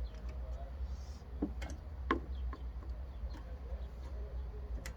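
A few sharp clicks and knocks of tools and parts being handled on a lawn mower, over a steady low hum.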